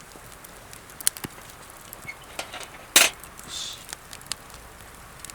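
Wood campfire crackling, with scattered sharp pops and one loud crack about three seconds in.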